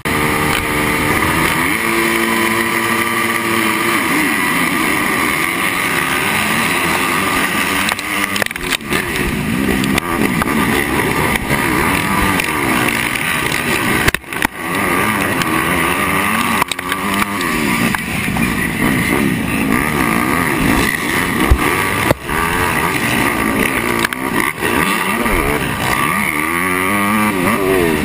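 Motocross bike engine running hard in a race, picked up by an onboard GoPro: it comes in loud all at once and climbs in pitch through several gears, then rises and falls constantly as the throttle is worked, with a few brief sudden drops in sound.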